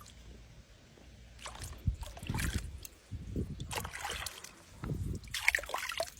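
Water splashing and sloshing in a tub in three bouts as a jaguar moves about in it.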